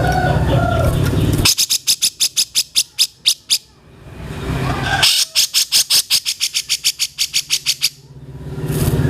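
A songbird giving two rapid trills of sharp, high chip notes, about ten a second, each about two seconds long with a short pause between them. A steady low rumble cuts off just before the first trill and returns near the end.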